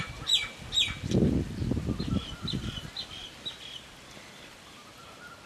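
Small birds chirping: a few quick falling calls in the first second, then a run of short, higher chirps, over a faint steady high tone. A soft low rustle sits under the calls from about one to two and a half seconds in.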